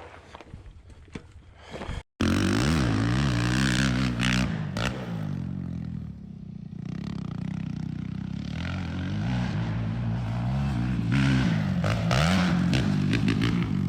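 Small dirt bike engine revving up and down as it is ridden, its pitch rising and falling with throttle and gear changes. It comes in abruptly after a brief dropout about two seconds in; before that there is only faint clattering.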